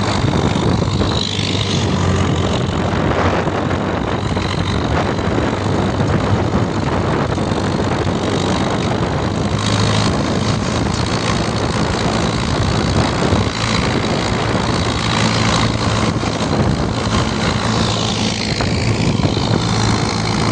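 Tractor engine running steadily with a low hum, under a loud steady rush of wind noise.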